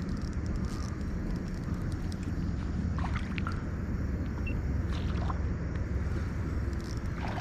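Steady low rumbling outdoor noise, with a few faint short ticks about three, five and seven seconds in.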